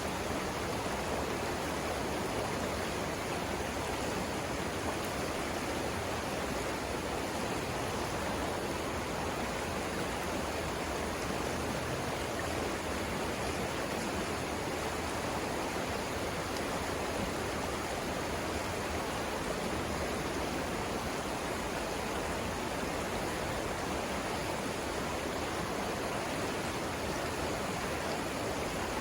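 River water rushing over rapids: a steady, even roar of flowing water.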